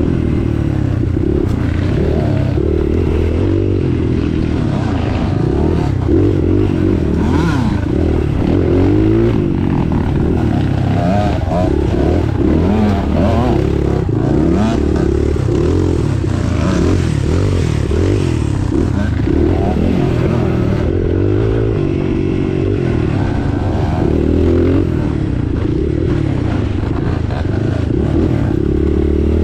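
A vehicle engine working hard over rough ground, its revs rising and falling constantly, with rattling and scraping from the vehicle over the trail.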